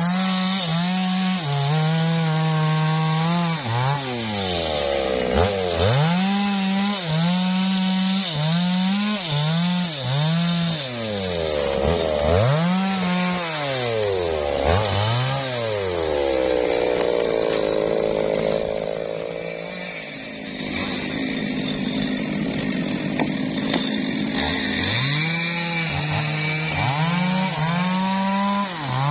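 MOTOYAMA 1000 chainsaw cutting teak wood, its engine pitch repeatedly swinging up and dropping back as the throttle is worked in the cut. About twenty seconds in it settles to a lower, steadier note for several seconds, then revs up again near the end.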